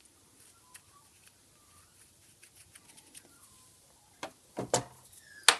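Light clicks and taps of small plastic headlight-adjuster parts being handled. Faint scattered ticks at first, then a few sharper knocks near the end, the last one the loudest.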